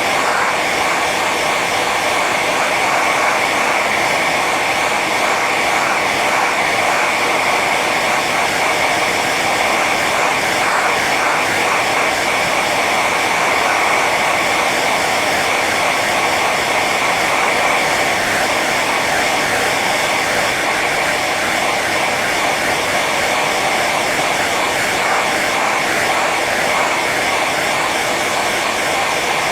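Hair dryer running steadily on its high setting: an even rush of blown air and motor with a constant whine.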